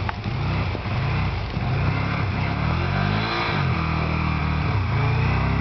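Can-Am Spyder roadster's V-twin engine revving up and down, its pitch rising and falling several times, then climbing and holding steadier.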